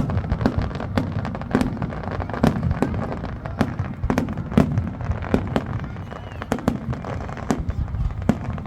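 Fireworks going off: a rapid, irregular string of sharp bangs and pops, about two to three a second, over a continuous low rumble.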